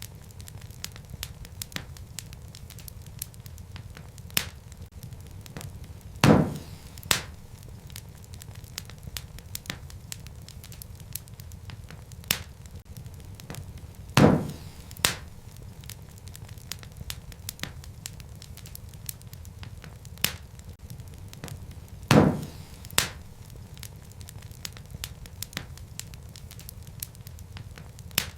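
Wood fire burning in a fireplace: a steady low rumble with frequent small crackles, and a loud sharp pop about every eight seconds, each followed by a smaller pop under a second later.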